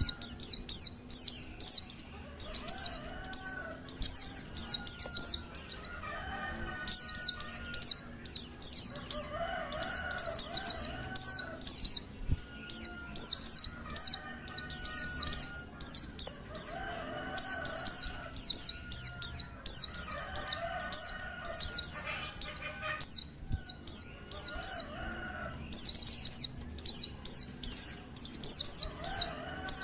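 Female white-eye (pleci) calling: quick runs of high, thin, downward-sliding notes, several to the second, in phrases about a second long repeated with short pauses. Fainter, lower calls sound in the background between the phrases.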